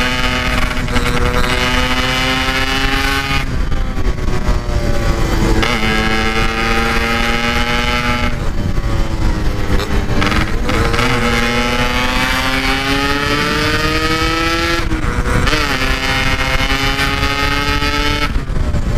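Yamaha RX-King's 135 cc two-stroke single-cylinder engine under way through an aftermarket Standart Belek Packing Power exhaust, its pitch climbing slowly under throttle in each gear and breaking off several times as the gears change.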